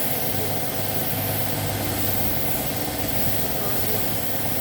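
Air compressor running steadily: a constant motor hum under an even hiss of air.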